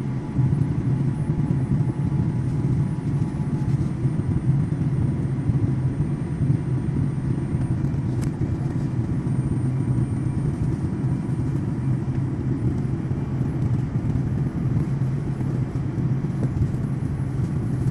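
Steady low rumble of a jet airliner heard from inside the passenger cabin: engine and airflow noise holding even throughout.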